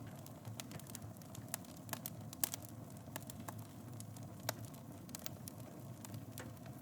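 Wood fire burning in a fireplace: irregular crackles and pops over a steady low rumble, with a louder pop about two and a half seconds in and another about four and a half seconds in.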